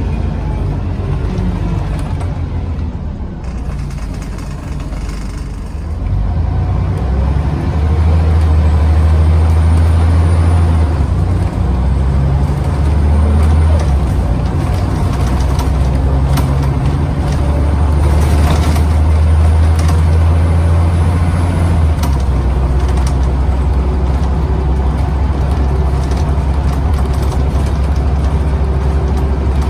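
Scania CN94UB OmniCity bus's diesel engine heard from on board. Its pitch drops and it runs quieter for the first few seconds. About six seconds in it pulls hard under load, with smooth automatic gear changes a few times before it settles into steady cruising.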